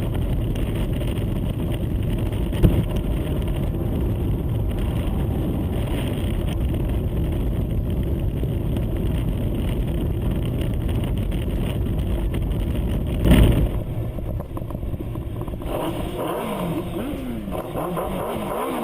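Motor vehicle traffic noise: a steady rush of road and engine sound with a short sharp sound a few seconds in and a louder one about 13 seconds in. After that it quietens and a wavering pitch rises and falls over and over near the end.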